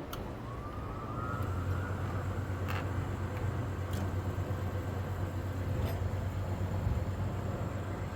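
Gas combi boiler starting up on its heating setting: a brief rising whine, then a steady low hum from about a second in, with a few faint clicks.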